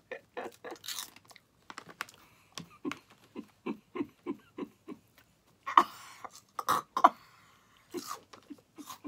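Crunching and chewing of a crisp shrimp wasabi chip, in short crisp crunches a few times a second, louder about six to seven seconds in.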